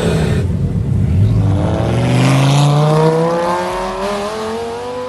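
A car engine accelerating hard, its pitch climbing steadily over several seconds as it pulls away in one gear.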